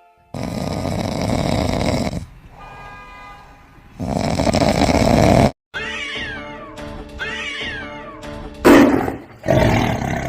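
A string of short clips cut abruptly one after another, mixing cat sounds with music. A run of repeated rising-and-falling calls comes about six to eight and a half seconds in, followed by a short loud burst.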